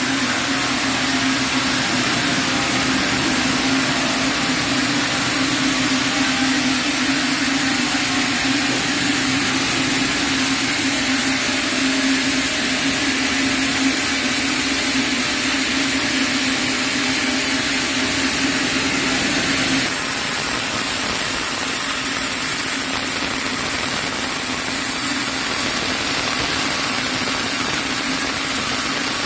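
Sawmill band saw running steadily through a chinaberry log, with a constant high whine over a low hum; about twenty seconds in the low hum drops away.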